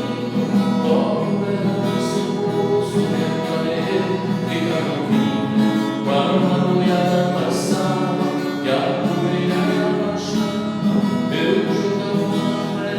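Acoustic guitar music, a song's passage without transcribed lyrics, with notes sounding steadily throughout.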